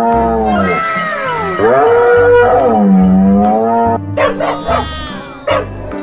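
Loud animal calls: two long drawn-out calls whose pitch dips and rises again, then a quick run of short calls.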